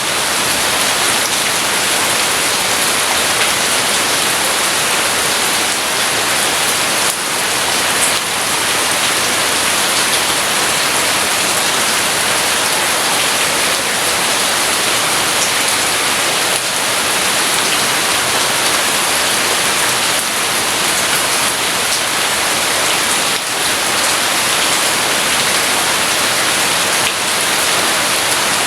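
Steady heavy rain falling, an even hiss with a few faint separate drop taps; no thunder.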